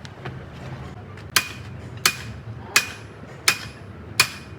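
A hammer striking metal in a steady rhythm: five sharp blows, about one every 0.7 seconds, each with a short metallic ring.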